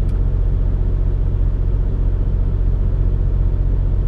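Steady low drone of a semi truck's engine and road noise heard inside the cab while the truck is moving.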